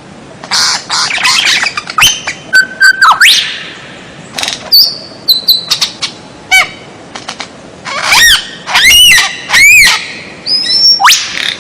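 White-rumped shama (murai batu) singing a loud, varied song of clear whistles, quick rising sweeps and harsh chatters, with a run of repeated arched notes about two-thirds of the way through, the kind of song played as a 'masteran' to train caged songbirds.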